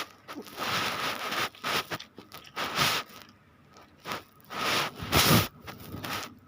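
A person chewing and eating close to the microphone, in irregular bursts with short pauses between mouthfuls.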